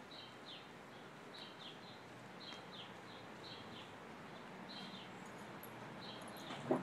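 Faint bird chirps outdoors: short falling notes repeated about twice a second over a soft background hiss, with one brief louder sound right at the end.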